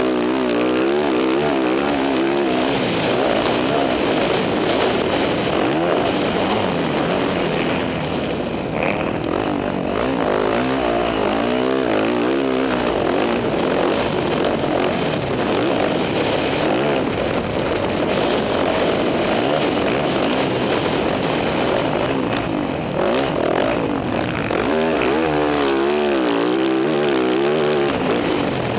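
Motocross dirt bike engine being ridden, its revs rising and falling over and over with the throttle.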